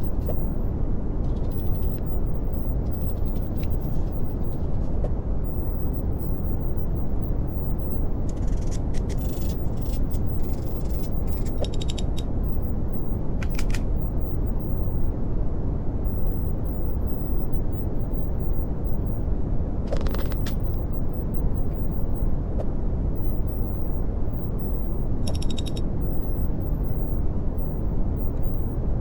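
Steady brown noise, a deep, even rushing hiss weighted toward the low end. Faint, brief high flickers sit in it now and then.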